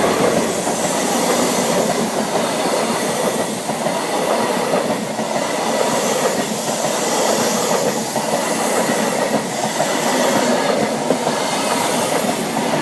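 An InterCity 125 high-speed train, with Class 43 power cars, passing through a level crossing; its wheels and running gear make a loud, steady rush of rail noise.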